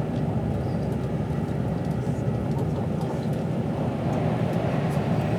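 Steady rumble of a passenger train running along the line, heard from inside the carriage, with a few faint light ticks over it.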